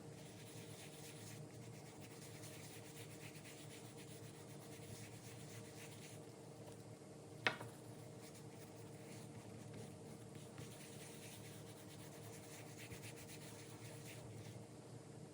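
Faint rubbing and light scratching on leather, as a wallet is worked by hand, with one sharp click about halfway through.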